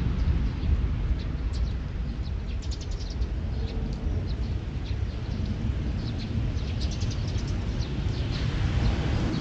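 Small birds chirping in many short high calls over a steady low rumble of wind and distant jet engine noise.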